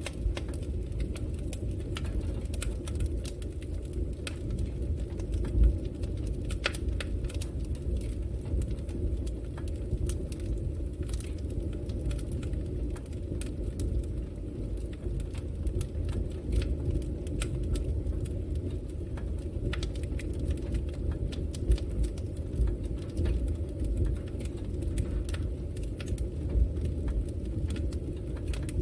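Wood fire burning in a fireplace: a steady low rush of flames with frequent sharp crackles and pops scattered irregularly throughout.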